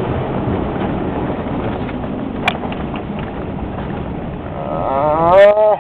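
Steady engine and road rumble inside a moving pickup's cab, with a sharp click partway through. Near the end a loud, drawn-out pitched sound rises and then dips for about a second.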